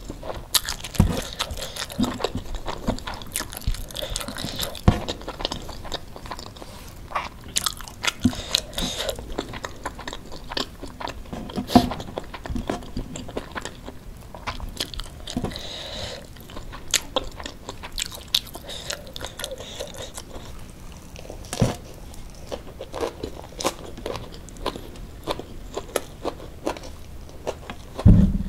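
Close-miked eating of rice with sambal: steady chewing and crunching, with many short, sharp mouth clicks throughout.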